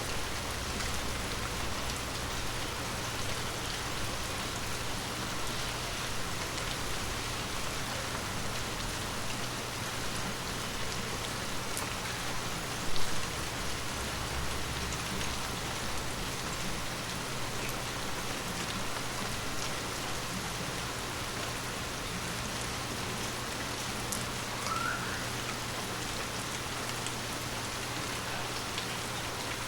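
Steady rain falling on forest leaves, with scattered individual drops heard close by. One louder knock stands out a little before the middle.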